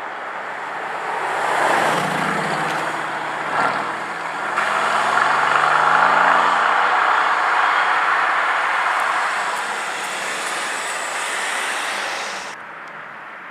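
Mercedes-AMG GT S twin-turbo V8 exhaust under hard acceleration. The pitch climbs from about three to five seconds in, and the engine stays loud for several seconds before the sound drops off sharply near the end.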